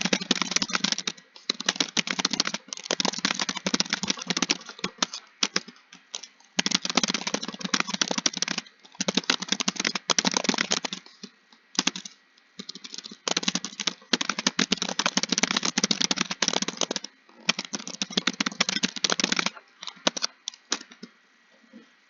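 Fast typing on a computer keyboard: dense runs of key clicks lasting a few seconds each, broken by short pauses, thinning out and stopping about a second before the end.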